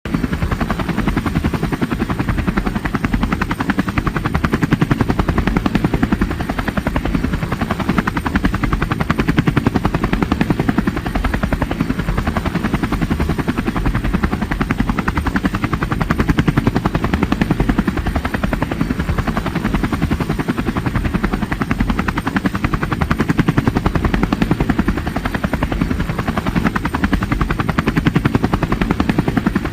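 Helicopter in flight: a steady, rapid rotor beat over the turbine engine's running noise, unchanging throughout.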